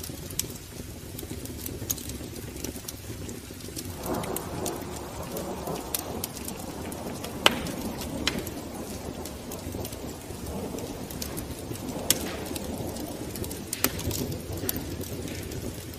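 Wood fire burning in a fireplace: a steady rush of flame with irregular crackles and a few sharper pops, the flame noise growing fuller about four seconds in.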